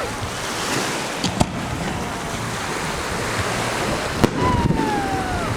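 Steady wind rushing over the microphone with surf in the background. Two sharp distant firework pops come about a second and a half in and about four seconds in, and a thin falling whistle sounds near the end.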